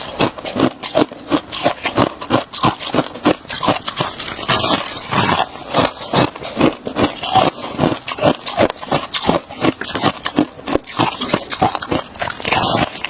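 Freezer frost being chewed close to the microphone: rapid, irregular crunches, several a second.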